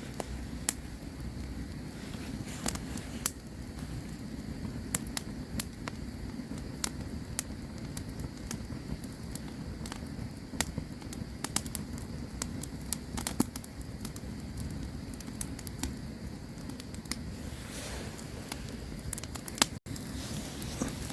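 Campfire crackling: irregular sharp pops and snaps from burning wood over a steady low rumble of the flames, with a momentary break in the sound near the end.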